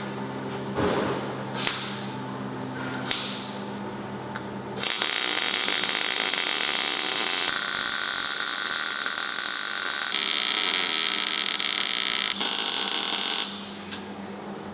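A few clicks and knocks, then about five seconds in a power tool starts cutting or grinding metal with a loud, harsh, high-pitched noise that changes a few times and stops suddenly near the end.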